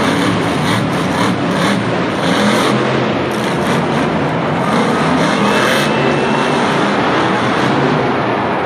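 Monster truck engine running loudly and steadily.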